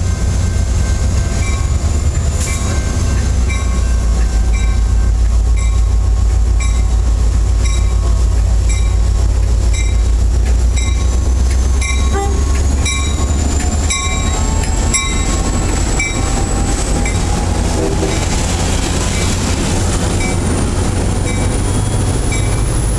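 Diesel commuter locomotive passing close, with its engine rumbling low, while a grade-crossing bell dings steadily about one and a half times a second. A burst of wheel clatter comes about halfway through as the locomotive goes by.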